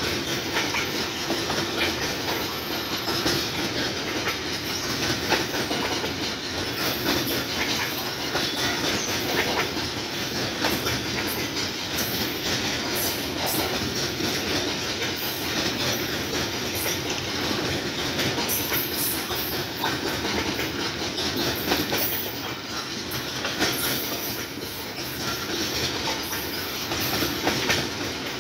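Covered box wagons of a parcel train rolling past on the rails: a steady rumble of wheels with continual clickety-clack as the wheels cross the rail joints.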